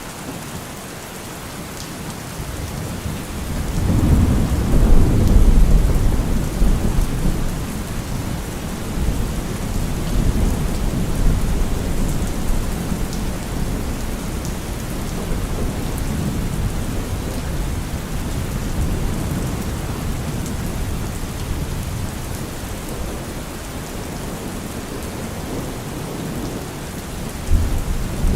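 Steady rain falling, with a long rolling thunder rumble that builds about four seconds in and slowly dies away, and another low rumble starting near the end.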